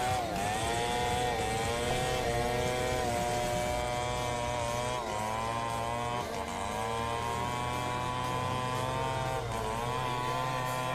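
Two-stroke chainsaw running under load while ripping a large log. Its engine pitch sags and recovers several times as the chain bites into the wood and eases off.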